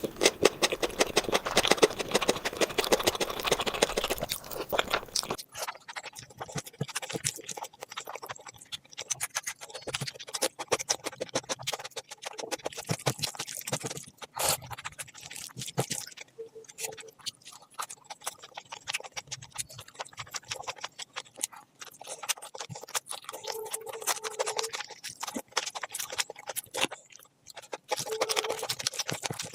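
Close-miked eating sounds: chewing, with many short wet mouth clicks and smacks. About five seconds in, a dense, crunchy-sounding stretch gives way abruptly to sparser clicks.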